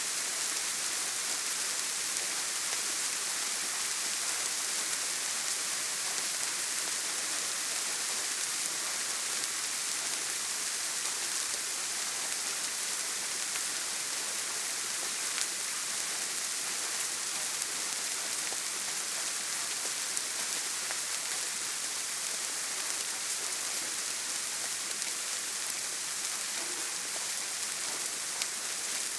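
Steady heavy rain falling on a tin roof, an even, dense hiss with the odd single drop ticking out of it.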